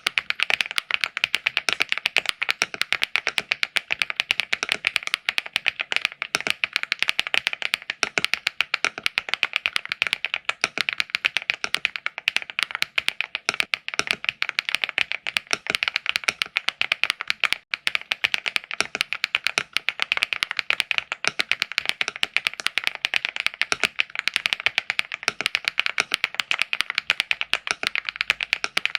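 Fast, continuous typing on a LEOBOG AMG65 mechanical keyboard: a dense stream of clacking keystrokes, with one brief pause just past the middle.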